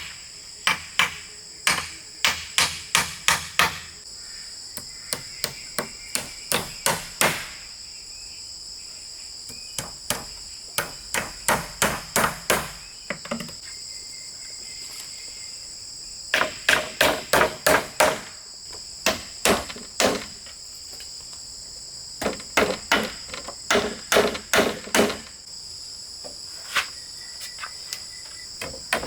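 Hammer driving nails into wood in runs of quick blows, about four a second, broken by short pauses. Insects chirr steadily behind it.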